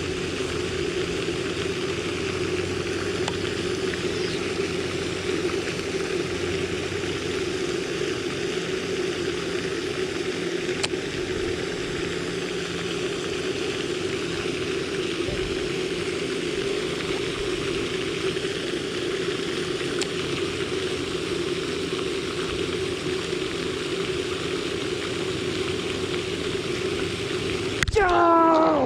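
A steady, even rushing noise with no rhythm, like a running motor or moving water. Near the end comes a short, louder sound that falls in pitch.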